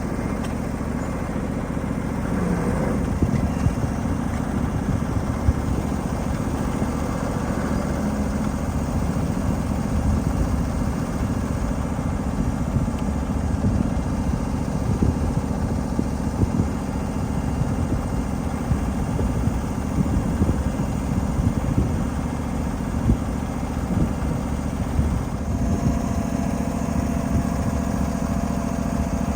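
7.5-inch gauge ridable miniature freight train running along the track: a steady locomotive drone with a continuous clatter of wheels over the rails. A steady high tone joins in near the end.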